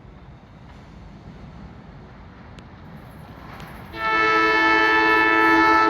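NJ Transit Arrow III electric multiple unit approaching with a low, slowly rising rumble, then sounding one steady horn blast of several notes at once, about two seconds long, starting about four seconds in.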